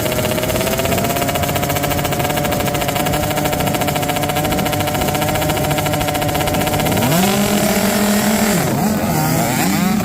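Motocross dirt bike engine running at high revs with a steady pitch, then about seven seconds in the revs drop and climb back up twice, as on a gear change or off the throttle.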